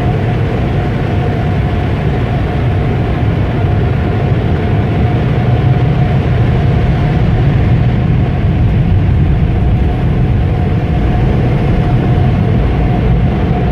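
Automatic car wash equipment running, heard from inside the car: a loud, steady rushing roar with one constant tone held through it.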